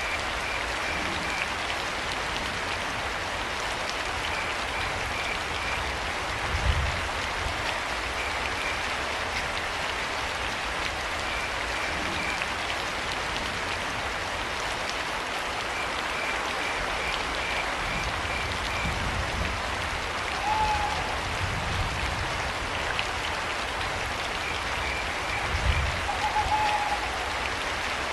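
Steady rain falling, with short trains of cricket chirps recurring throughout. An owl hoots briefly twice, about two-thirds of the way in and near the end, and a few low thuds come through the rain.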